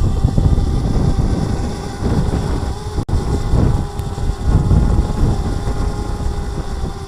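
Wind buffeting the microphone in loud, gusting rumbles, over the steady hum of a DJI Mavic Mini's propellers as the drone hovers.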